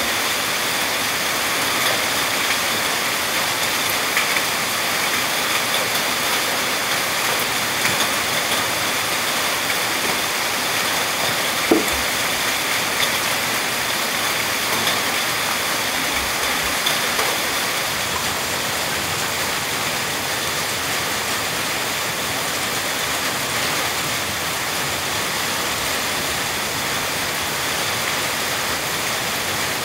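Steady rain, an even hiss, with a few faint ticks and one short knock about halfway through.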